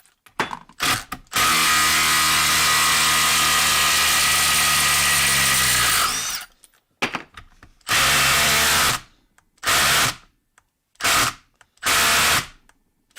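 Cordless impact driver hammering a bolt out under load. First a few quick blips, then one long run of about five seconds, then five or six short bursts with pauses between them.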